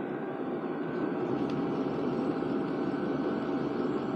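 Hcalory diesel air heater running hot: a steady rush of its blower fan and burner, with a faint steady whine on top.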